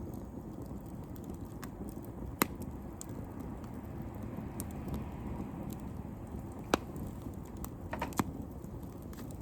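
Wood campfire burning, with a steady low rush and scattered sharp crackles and pops of the burning wood, the loudest two about a quarter and two-thirds of the way through and a quick pair near the end.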